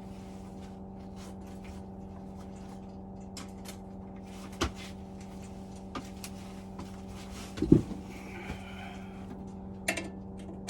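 Hand tools and metal parts clicking and knocking while the fan of a Vaillant turboMAX boiler is being unscrewed, with one louder clunk about three-quarters through, over a steady low hum.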